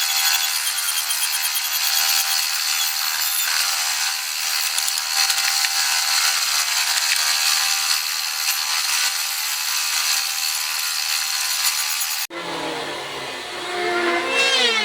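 A woodworking power tool runs steadily as it works wood, a high, noisy sound that cuts off abruptly about twelve seconds in. A quieter sound with wavering tones follows near the end.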